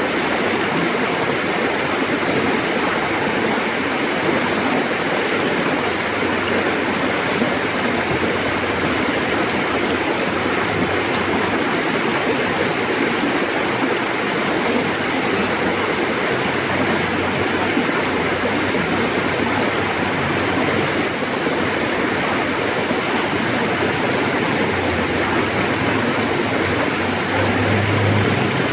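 River water rushing steadily over rocks, an even, continuous flow.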